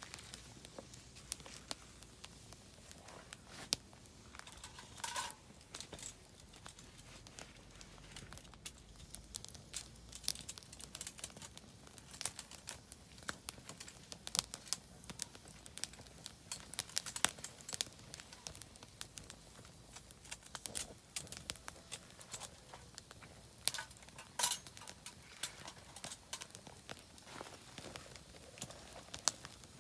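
Oak firewood burning in a campfire, crackling with irregular sharp pops and snaps.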